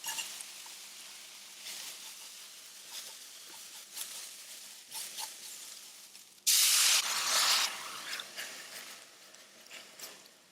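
Kitchen cooking sounds: a soft steady hiss with small clicks and taps, broken about six and a half seconds in by a loud hiss that lasts about a second and then dies away.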